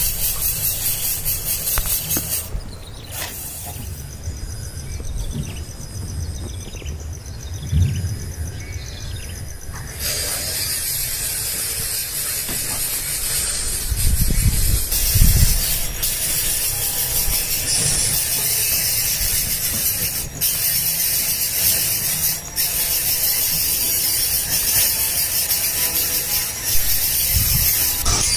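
Young birds' raspy, ratchet-like begging calls, repeated over and over, with a steady high hiss and irregular low rumbling underneath.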